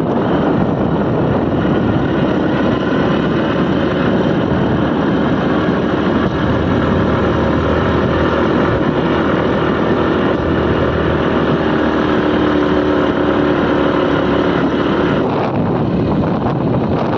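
Motorcycle engine running steadily while riding, mixed with loud wind buffeting on the microphone.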